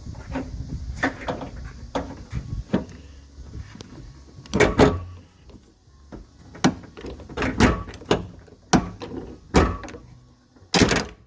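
Hand pop-rivet gun being worked: a run of sharp, irregular metallic clicks and clacks, with the loudest snaps about halfway through and near the end.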